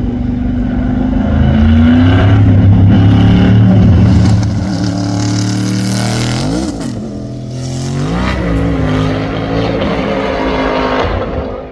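A high-performance car engine running hard, its pitch climbing early on and staying loud for a few seconds, then rising and falling sharply twice near the middle.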